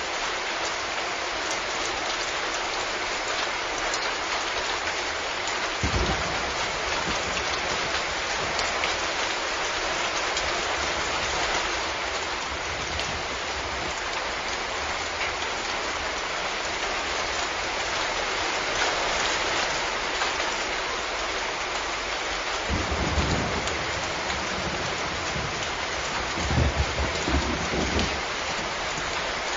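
Steady heavy rain falling on a surface, an even hiss of drops. A few short low rumbles break in, one about six seconds in and a cluster near the end.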